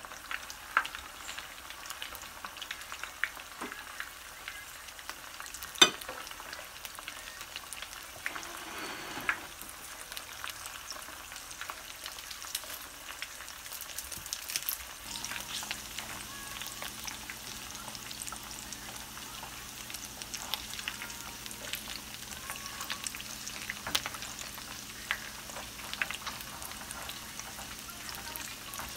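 Pre-simmered pork spare ribs frying in hot oil in a pan: a steady sizzle and crackle with scattered pops, one sharp pop about six seconds in.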